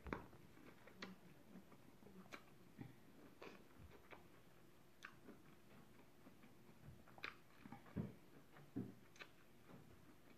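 Faint, irregular clicks of mouth sounds from biting and chewing corn on the cob.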